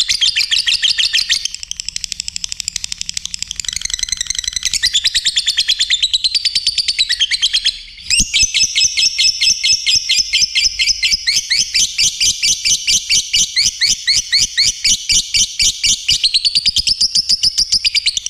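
Lovebird singing a long, rapid, unbroken run of high chirps in the chattering 'khicoan' style, with a brief break about eight seconds in.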